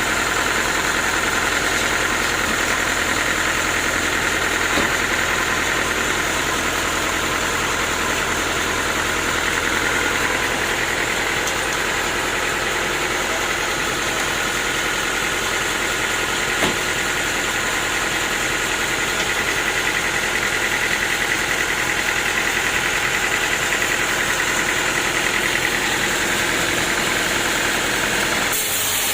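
Sawmill engine running steadily, with one brief knock about two-thirds of the way through.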